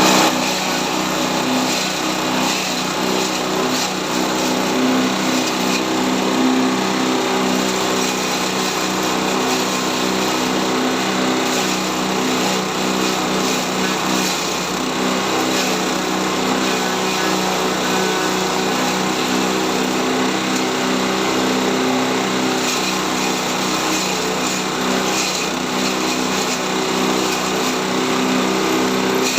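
Small engine of a chopper machine running steadily at a constant speed, with no change in pitch.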